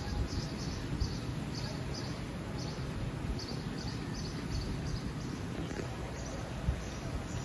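Small birds chirping in short, high notes that come in quick little clusters again and again, over a steady low background rumble.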